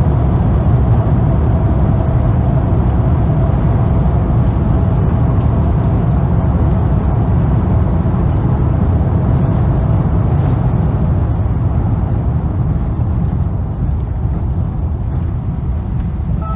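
Airbus A350 cabin noise, heard from a passenger seat: a loud, steady low rumble from the Rolls-Royce Trent XWB engines and the ground roll, typical of the landing rollout. The rumble eases over the last few seconds as the airliner slows.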